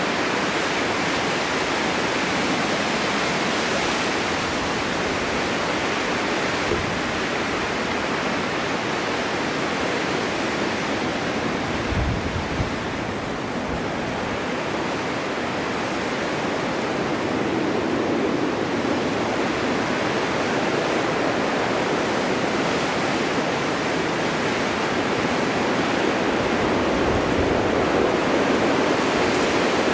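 Snowstorm wind blowing steadily, a dense rushing hiss that slowly swells and eases, with brief low rumbles of gusts about twelve seconds in and again near the end.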